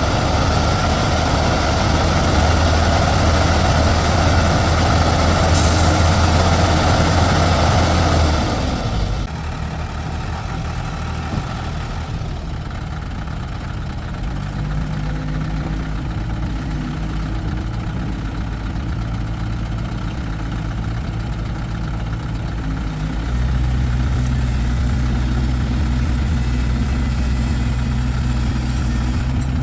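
Engine running steadily, loud and noisy for the first eight seconds or so, then settling lower and quieter, and picking up again about 23 seconds in.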